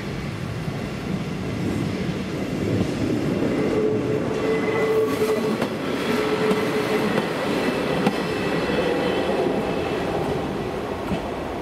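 ČD class 811 single-car diesel railcar passing through a level crossing, its wheels clattering over the rails, loudest around the middle as it goes by.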